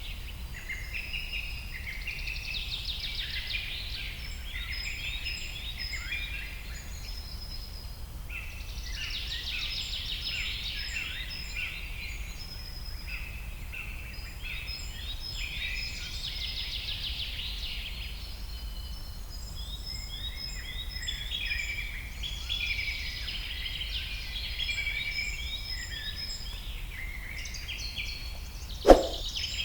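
Many small birds chirping and twittering at once, in waves of dense, overlapping short high notes, over a steady low rumble. A sudden loud strike comes near the end.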